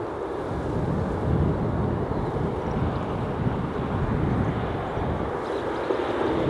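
Boeing 737-800 jet airliner's CFM56-7B engines, a steady broad rumble growing a little louder, with wind buffeting the microphone.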